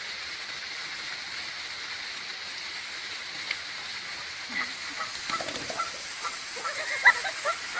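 A flock of geese calling, with many short honking calls starting about halfway through and getting busier and louder toward the end, over a steady hiss.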